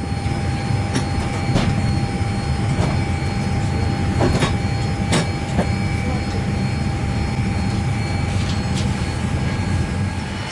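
Boeing 787-8 cabin near the forward door: a steady low rumble of airliner cabin ventilation with a thin steady whine over it. Scattered clicks and knocks are heard, about seven in all.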